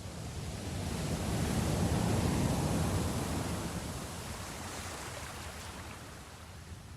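Sea waves: one swell of rushing water builds over the first two seconds or so, peaks, then slowly falls away.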